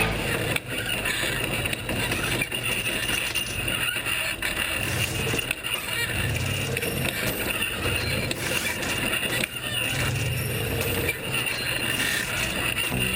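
Off-road competition rig's engine working over rough terrain, a low rumble that swells and fades, with noise from the vehicle-mounted camera and a few short knocks.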